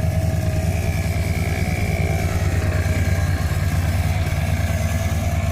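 1976 Chevy Bonanza truck's engine running steadily, a low even rumble.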